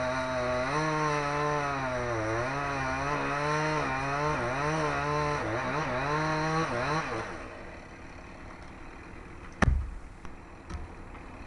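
Chainsaw running under load, its engine pitch dipping and rising as it cuts, then falling away about two-thirds of the way through. A sharp knock follows, the loudest moment, with a smaller knock after it.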